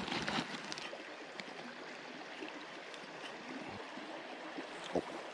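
Mountain stream running steadily, with a short knock about five seconds in.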